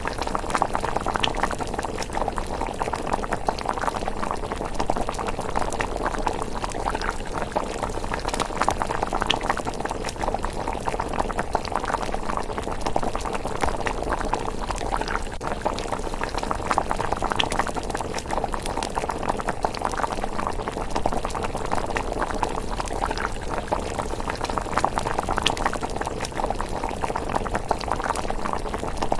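Thick miso rice porridge bubbling steadily in a pot, a constant patter of small pops and blubs.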